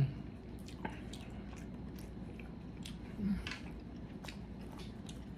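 Close-miked chewing of a mouthful of seafood: soft, wet mouth clicks and squishes, with a short hum about three seconds in.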